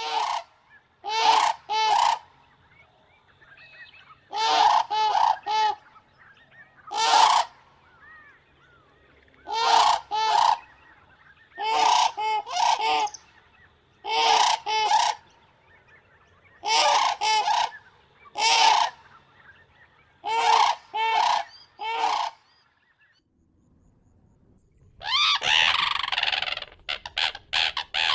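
Common crane calling: loud trumpeting calls in clusters of one to three, repeated every two to three seconds. Near the end a harsher call and a fast run of short notes set in.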